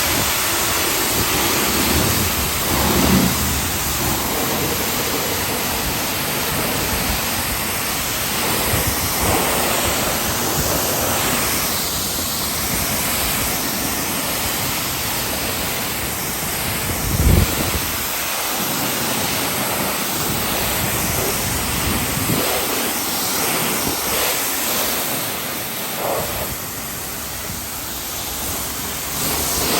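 High-pressure spray wand at a self-serve car wash, spraying a steady hiss of water against a car to rinse it. A brief low thump comes a little past halfway.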